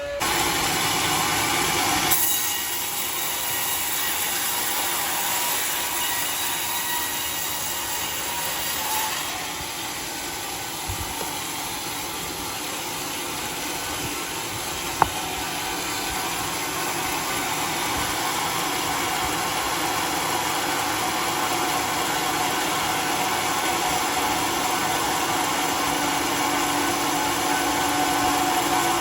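Homemade sawmill saw cutting steadily through a scorched bayur log, a loud, even machine whine and rasp that starts abruptly and holds steady throughout.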